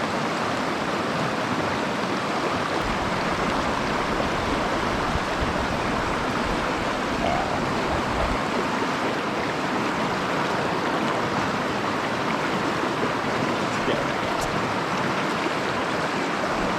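Steady rush of a shallow mountain stream flowing over rocks and gravel.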